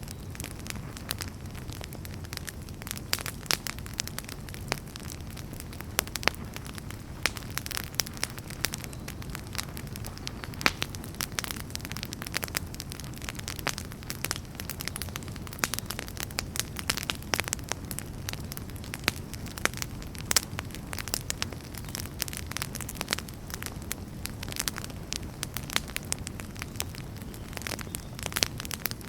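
Wood campfire burning with frequent, irregular sharp crackles and pops over a steady low rumble.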